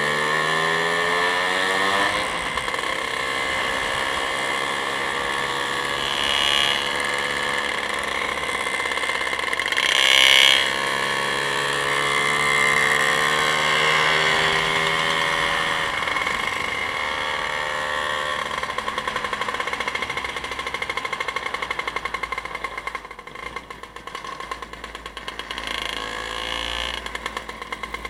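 A vehicle's engine running on the move, its pitch rising and falling as it speeds up and slows, with brief louder swells about six and ten seconds in.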